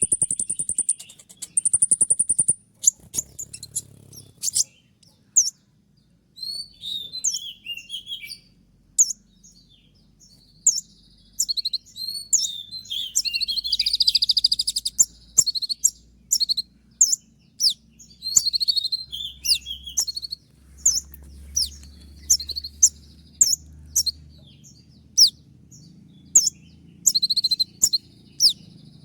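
A kolibri ninja (konin) sunbird singing: many short, sharp, high chirps and quick twittering trills in rapid-fire bursts, with a steady high trill near the start.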